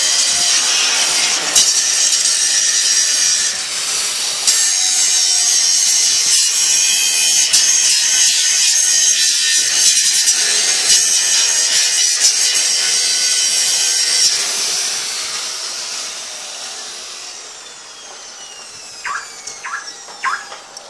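A gold ore washing machine running with a loud, dense grinding rattle. About two-thirds of the way through it fades away, with a falling whine as it slows, and a few sharp clicks follow near the end.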